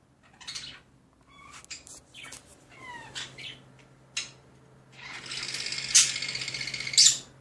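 Chukar partridge calling: short chirps and a few falling notes, then a rapid rattling stretch about five seconds in that ends with two sharp clicks.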